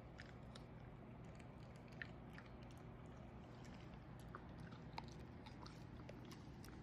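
Shiba Inu chewing a treat: faint, irregular small clicks of its teeth and jaws.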